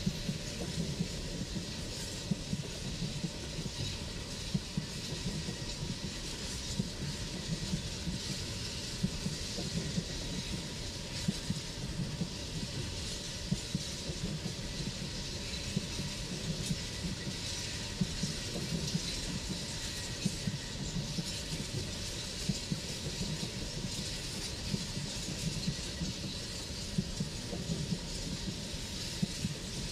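Coal train wagons rolling along the track: a steady low rumble and hiss with frequent short clacks from the wheels.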